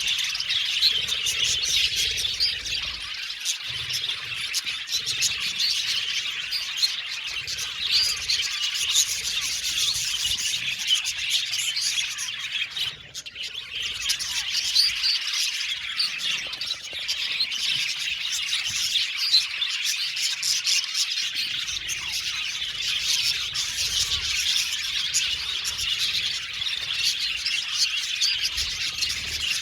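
A flock of budgerigars chattering together: a dense, continuous mix of chirps and warbles from many birds at once, with a brief lull about thirteen seconds in.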